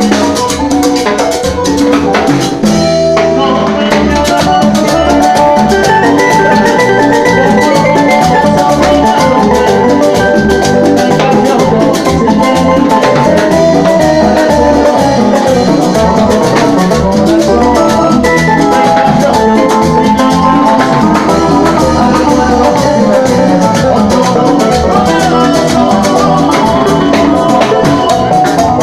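Live Latin dance band playing rumba-son music, a steady drum and percussion beat under melodic lines, with a brief break in the drums about three seconds in.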